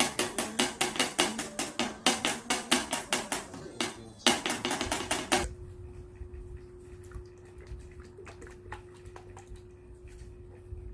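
Hammer tapping in quick, even strokes, about three a second, during assembly of a wooden furniture kit; the taps pause briefly about four seconds in, resume for about a second, then stop, leaving a faint steady tone and a few light clicks.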